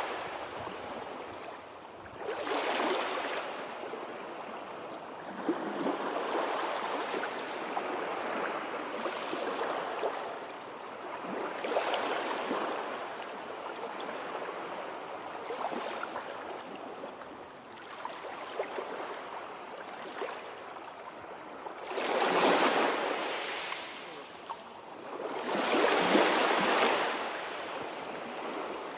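Sea waves washing in and out on the shore, a noisy wash that swells and ebbs every few seconds. Two louder waves break in the last third.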